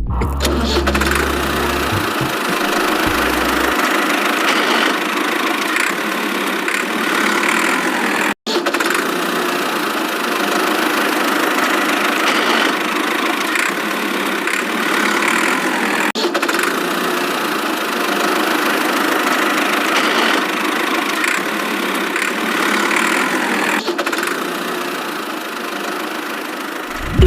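A small motor running steadily, with a brief break about a third of the way through.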